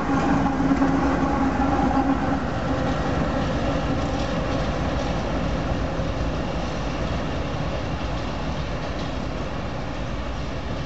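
Freight train of covered hopper cars rolling past, steel wheels on the rails, with a steady tone over the noise for the first couple of seconds. The sound then slowly fades as the end of the train pulls away.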